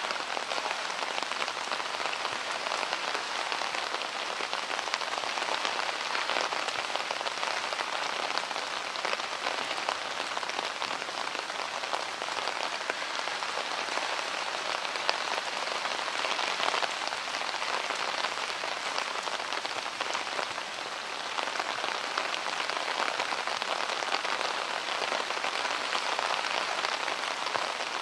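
Heavy downpour of rain: a dense, steady hiss of countless drops falling.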